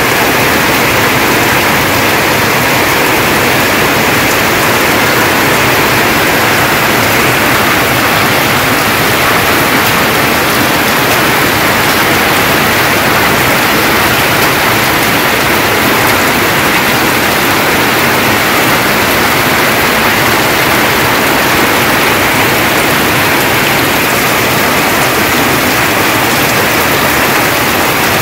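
Heavy rain pouring steadily onto leaves and fields, a loud, even hiss that holds unchanged throughout.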